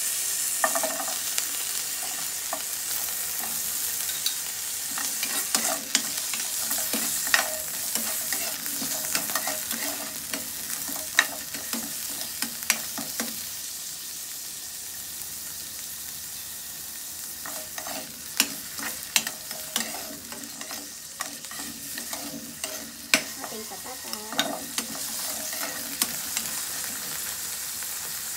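Carrot slices and potato cubes sizzling in hot oil in a nonstick frying pan, a steady hiss that eases in the middle and picks up again near the end. Frequent sharp clicks and taps run over it as pieces drop into the pan and a utensil knocks against it.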